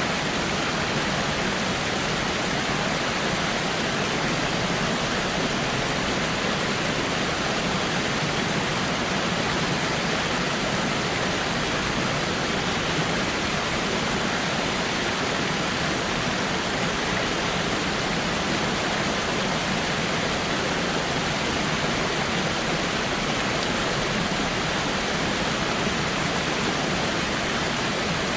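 Waterfall, a steady, even rush of falling water with no change in level.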